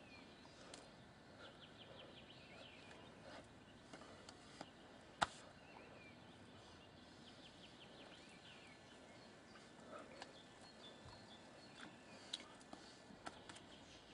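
Near silence: faint birds chirping in quick trills, with a few sharp clicks, the loudest about five seconds in.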